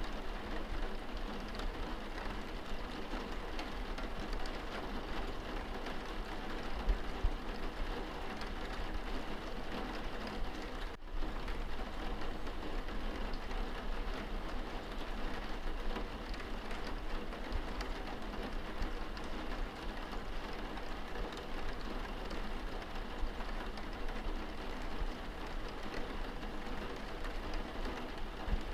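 Rain on window glass, heard from inside the room: a steady hiss with scattered light drop taps. There is a split-second dropout about eleven seconds in.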